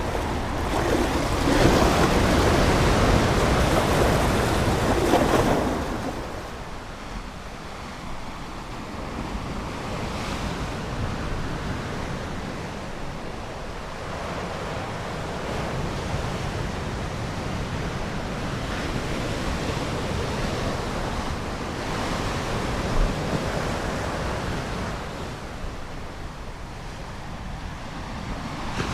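Ocean waves on a shore: a louder wave breaks and washes in over the first six seconds, then the surf settles into a quieter, steady wash.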